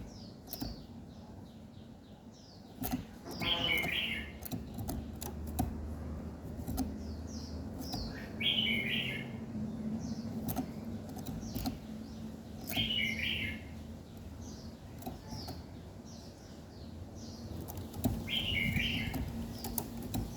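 Small songbirds chirping: a steady run of short high chirps, with a fuller warbled song phrase repeating about every four to five seconds.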